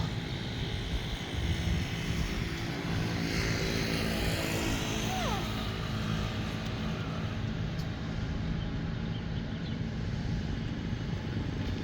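An engine running steadily with a low hum, with a rush of noise swelling and fading about three to five seconds in.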